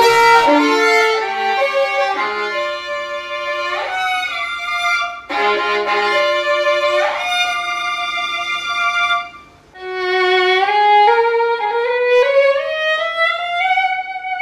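Unaccompanied violin practice: sustained bowed notes and passages, opening with a strong accented attack. It breaks off briefly about ten seconds in, then plays a phrase that climbs steadily higher.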